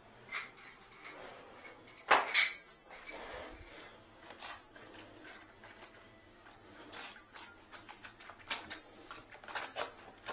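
Irregular metallic clicks, knocks and scraping as a wire coat hanger jammed in a bathtub drain is tugged and worked at, with two louder knocks about two seconds in and quicker clicking near the end.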